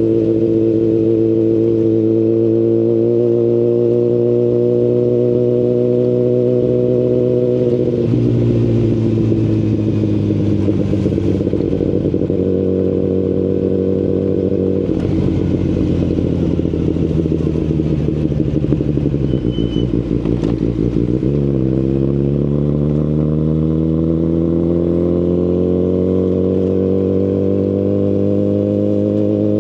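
Kawasaki Ninja ZX-10RR's inline-four running through an Akrapovic full-system carbon exhaust while riding, revs climbing slowly at first. About eight seconds in the throttle closes and the revs fall away for over ten seconds, then the bike pulls away again with the revs climbing steadily.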